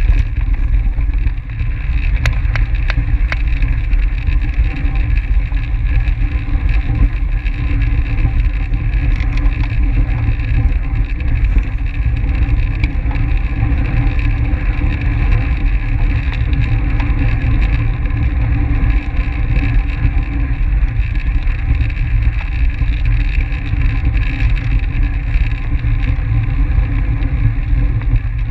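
Wind rushing over the microphone of a camera riding on a track bicycle at speed: a steady low rumble, with a few faint clicks about two to three seconds in.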